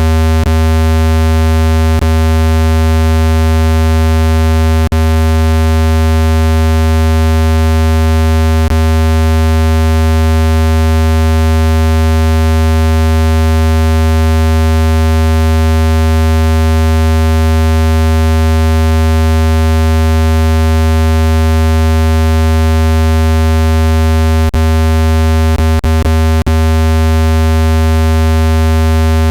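Synthesized speaker-cleaning tone: a loud, steady, low buzzing tone with many overtones, meant to vibrate dust out of a phone speaker. A few brief clicks break in, several close together near the end.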